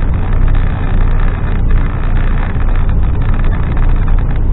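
Loaded HGV lorry's diesel engine pulling hard up a hill, a loud, steady low drone under load.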